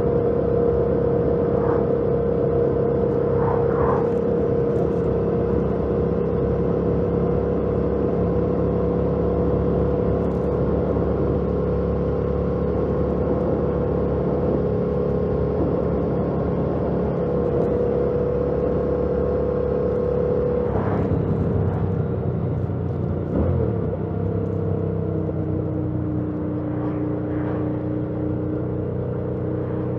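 2018 Yamaha MT-07's 689 cc parallel-twin engine running at steady revs on the stock exhaust. About two-thirds of the way through the revs drop, with a short knock, and the engine settles at a lower steady note.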